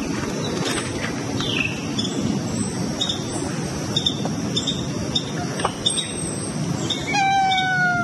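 Bird calls played back at about a quarter of normal speed, so each chirp is stretched out and lowered: scattered short chirps, a falling glide about a second and a half in, and a long call with several overtones sliding slightly downward near the end. Heavy compression keeps a constant noisy background up under the calls.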